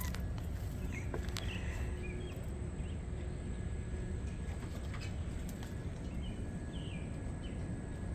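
A few short bird chirps, in two small groups, over a steady low rumble.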